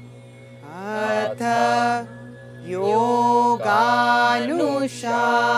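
A solo voice chanting a mantra in three long, gliding phrases over a steady low drone.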